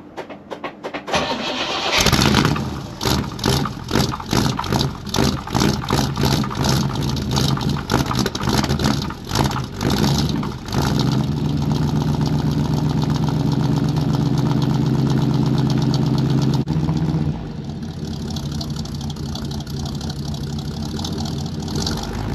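1955 Pontiac V8 cold-starting at 7°F with a 2-barrel carburettor and no choke. After brief cranking it catches and runs raggedly in uneven surges for several seconds. About ten seconds in it settles into a steady fast idle, then drops to a lower steady idle a few seconds before the end.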